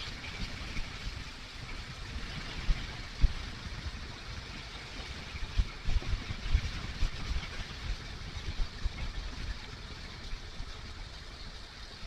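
Kawasaki KLR motorcycle running on the road, heard through a helmet microphone: a steady engine and road hiss under irregular wind buffeting on the mic.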